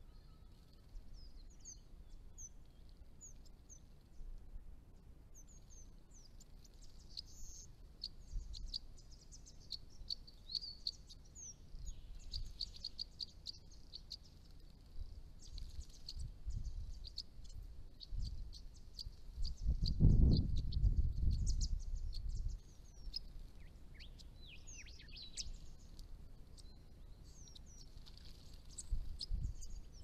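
Small birds chirping and twittering with many short, high, thin notes. About two-thirds of the way through comes a loud, low rumble lasting a couple of seconds.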